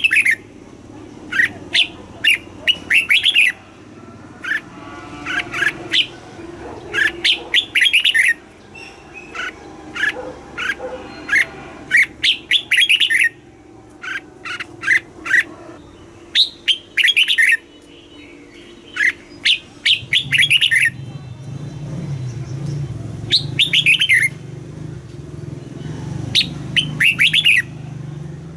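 Red-whiskered bulbul singing its short, quick warbled phrases over and over with brief pauses between them. This is the bulbul song used to train young caged birds and to excite a caged bird. A low hum comes in about twenty seconds in.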